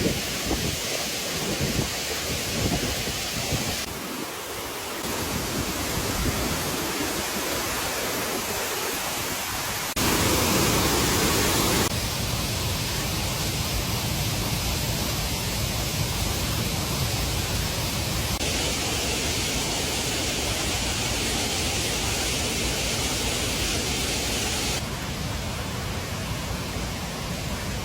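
Steady rushing noise of rain and running water, with no distinct events. It changes abruptly several times, about 4, 10, 12, 18 and 25 seconds in, as if separate recordings were joined; it is loudest and brightest from about 10 to 12 seconds in.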